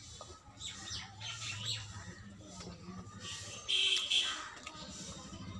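Wet chewing and lip-smacking of a person eating a mouthful of rice by hand, with scattered small clicks. A brief shrill squawk-like sound about four seconds in is the loudest thing.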